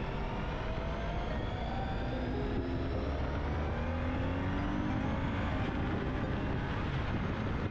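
Vehicle accelerating hard, from about 25 to 70 mph, its engine note climbing steadily in pitch over a constant rumble of road and wind noise.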